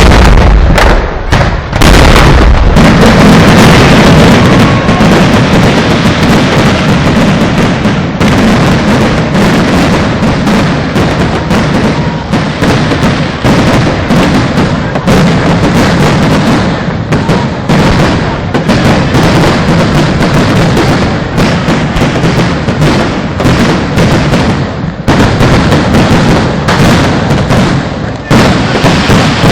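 Temple-festival fireworks display: a heavy boom at the start, then a dense, continuous barrage of rapid cracks and bangs, very loud and without a pause.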